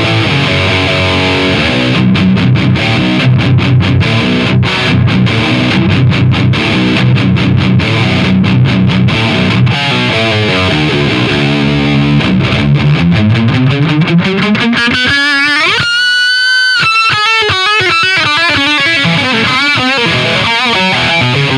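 Distorted electric guitar played through a Diezel VH2 tube amp head into a Marshall 4x12 cabinet. A heavy, stop-start chugging riff gives way to a rising slide into a long held lead note with vibrato about two-thirds of the way in, then a lead line.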